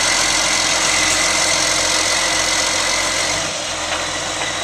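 Versatile 2375 four-wheel-drive tractor's Cummins M11 diesel engine idling steadily. The loudness drops a little about three and a half seconds in.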